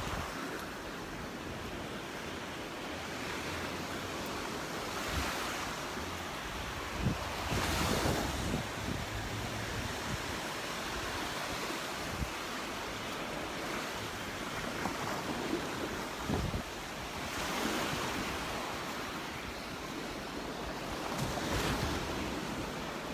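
Surf washing onto the beach, swelling and fading every few seconds as waves break, with wind buffeting the microphone.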